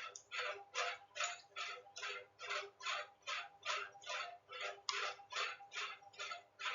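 Steady ticking, a little over three strokes a second, with faint held tones beneath.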